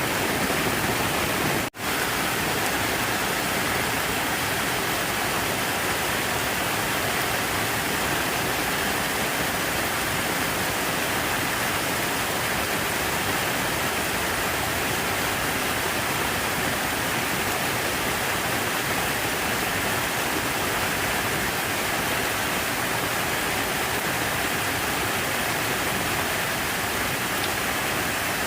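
Falling water rushing steadily, a full, even hiss with no change over the whole stretch; it cuts out for an instant about two seconds in.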